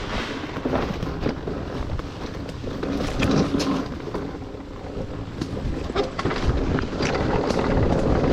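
Dirt bike engine running along a trail, with wind buffeting the microphone and scattered knocks and rattles from the rough ground.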